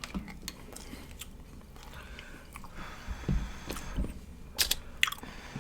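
Close-up chewing and biting into barbecue ribs, with scattered sharp mouth clicks and a few low thuds.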